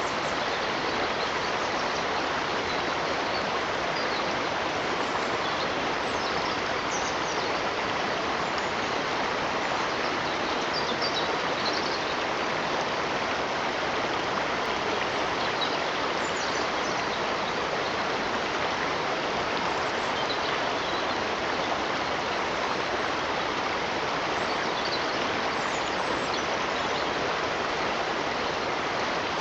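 Steady rushing of a flowing stream, even and unbroken, with faint high chirps here and there.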